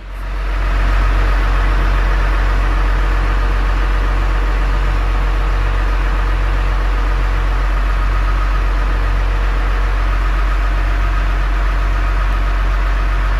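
Tractor engine running close by at a steady speed, with a strong low hum and no change in pitch.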